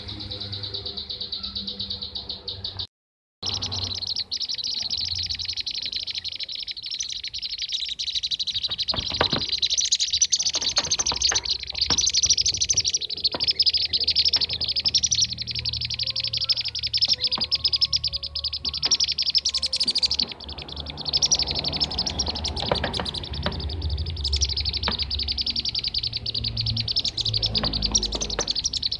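Dense, continuous chorus of rapid rolling chirps from kirik-kirik birds (bee-eaters), a looped bird-lure call recording used to attract the species. The sound cuts out briefly about three seconds in.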